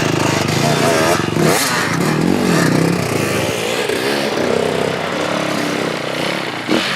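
Motorcycle engine running, its pitch rising and falling repeatedly as it is revved. There is a brief sharp sound near the end.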